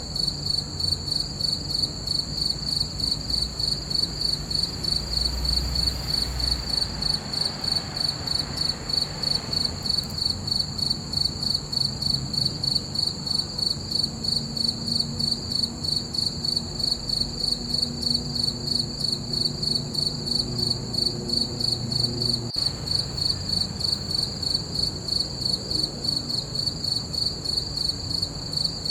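Crickets chirping at night, a high, steady trill pulsing in an even rhythm of a few chirps a second that never stops.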